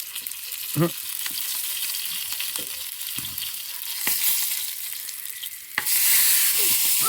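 Sausages sizzling as they fry, with fat spitting and crackling. About six seconds in there is a sharp pop and the sizzle gets suddenly louder: a sausage bursting open in the heat.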